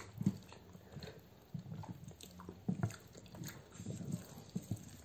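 Close-miked chewing and eating sounds of people eating rice with chicken gravy by hand: short, irregular soft smacks and small clicks.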